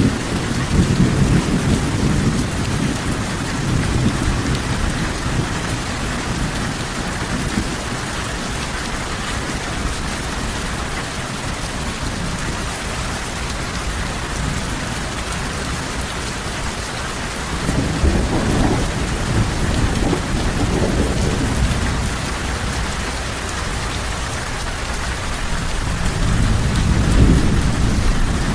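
Steady heavy rain falling, with thunder rumbling in low swells at the start, about two thirds of the way through and again near the end.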